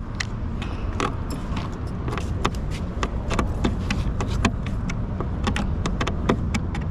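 Irregular sharp clicks and small rattles of hands and a tool working at a truck's light housing, over a steady low rumble.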